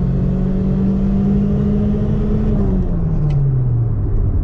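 A 1992 Toyota Paseo's four-cylinder engine at full throttle, heard from inside the car: its note climbs slowly under load, then drops away about three seconds in as the revs fall.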